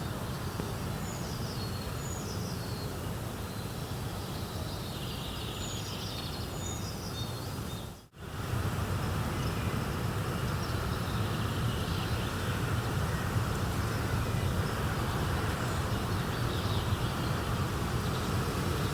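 Steady rushing nature ambience with birds chirping in the first half. About eight seconds in, the sound briefly dips almost to nothing, then the steady noise comes back slightly louder without the chirps.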